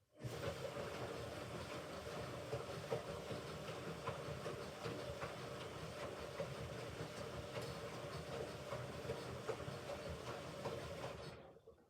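Hoover Ecologic Computer Washer 1300 turning its drum during a rinse: the motor starts suddenly with a steady whine and the load tumbles with light knocks for about eleven seconds, then the motor winds down and stops.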